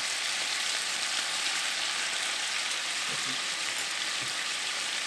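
Chicken thighs frying in hot oil in a skillet over medium-high heat: a steady, even sizzle.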